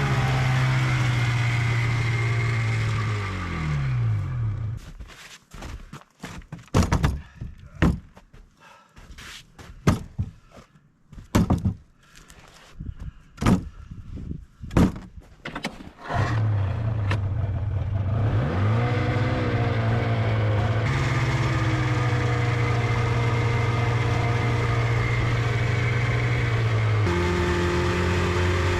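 A small petrol engine runs steadily, slows and stops a few seconds in. A series of separate sharp knocks and thunks follows. Then the engine starts again, revs once and runs steadily, settling to a different pitch near the end.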